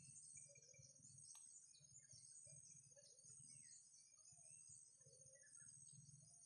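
Faint outdoor ambience: a steady high-pitched insect drone with scattered small bird chirps, and soft low sounds recurring about once a second.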